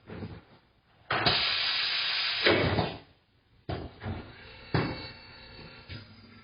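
Compressed air hissing steadily for about two seconds at a tyre-changing machine, followed by a few sharp clacks.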